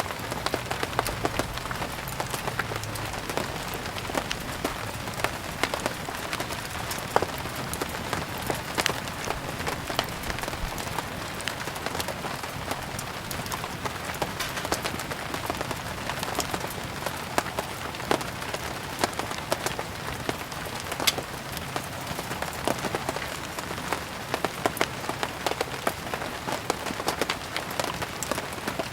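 Steady rain hiss with frequent sharp ticks and pops, mixed with the crackle of a wood fire burning.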